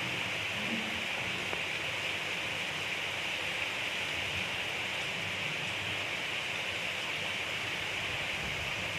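Gentle steady rain falling: an even hiss with no thunder and no music.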